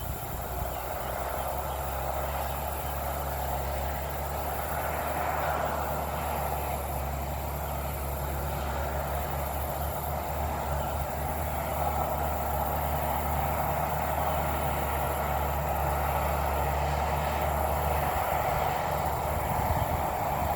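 Bulldozer diesel engine running steadily in the distance as it clears the field, slowly growing a little louder.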